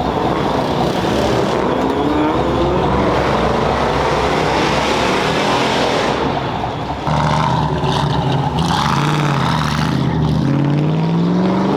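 Performance car engines revving and pulling away, their pitch rising and falling. About seven seconds in a deeper engine note comes in sharply, then climbs near the end.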